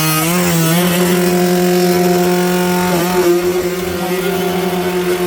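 Enduro dirt bike engine held at high, nearly steady revs under load, with a brief dip in revs about three seconds in.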